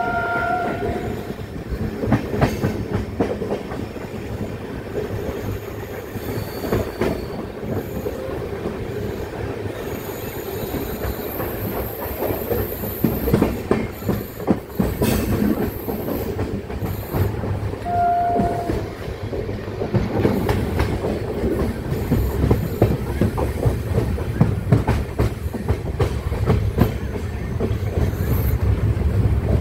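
Express passenger train running at speed, heard from an open coach door: steady running noise, with the wheels clacking rhythmically over rail joints. A short horn note sounds about two-thirds of the way through, and the low rumble grows louder in the last third.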